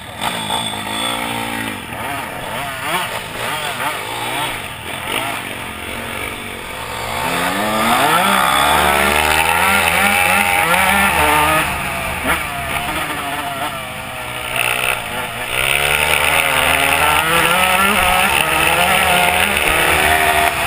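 Dirt bike engine revving up and down over and over, getting louder about a third of the way in.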